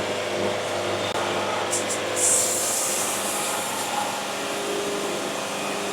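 A band sawmill running, its blade cutting lengthwise through a cherry log, with a steady hum from the machine. About two seconds in there are a few ticks, and then a brighter hiss joins and carries on as the cut goes ahead.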